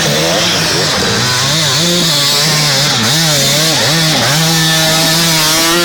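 Enduro motorcycle engines revving up and down in quick, repeated swells, then holding steady revs for about the last second and a half.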